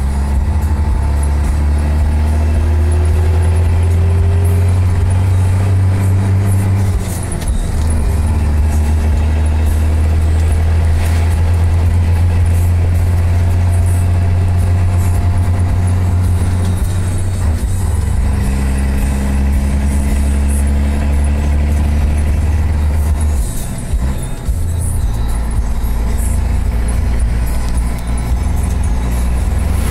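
Scania 111 truck's six-cylinder diesel engine running under load, its revs climbing and then dropping at gear changes about seven seconds in and again around twenty-four seconds.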